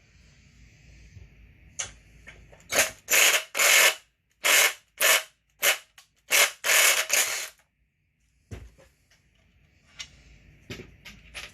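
A hand or power tool driving Allen-head cap screws into a chainsaw fuel tank cover. It goes in about nine short, loud bursts of clicking noise, spread over a few seconds, with a few faint clicks near the end.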